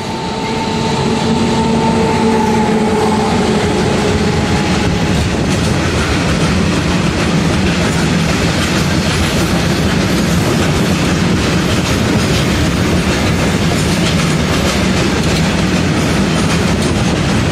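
Freight train hauled by a WAG-7 electric locomotive passing close at speed: a humming tone from the locomotive fades away over the first few seconds, then the loud, steady rumble and clatter of the open wagons' wheels running over the rails.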